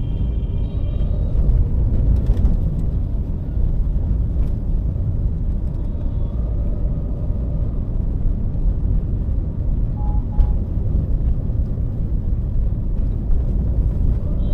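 Toyota Allion driving: a steady low rumble of road and engine noise.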